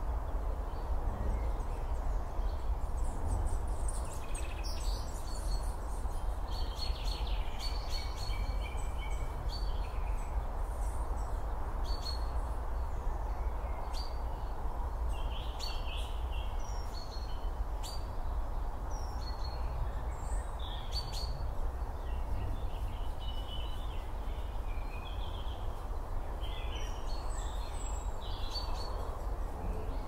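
Several songbirds chirping and calling in short, repeated phrases, over a steady low outdoor rumble and hiss.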